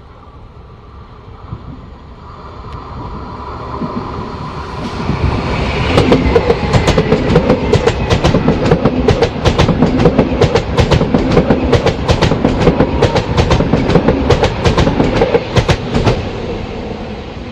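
Train approaching and passing close by on curved track, its wheels clattering rapidly over the rail joints. It builds steadily for about six seconds, stays loud for about ten, then fades near the end.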